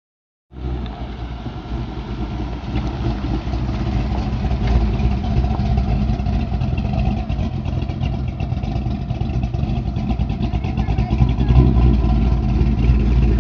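A car engine running steadily with a deep, even rumble, starting suddenly about half a second in.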